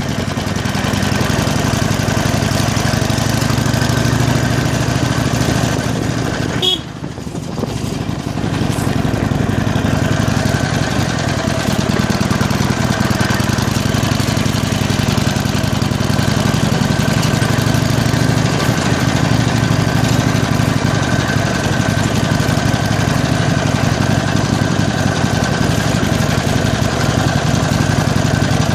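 Harley-Davidson Iron 883's air-cooled 883 cc V-twin engine running steadily on the move, with a brief drop in level about seven seconds in.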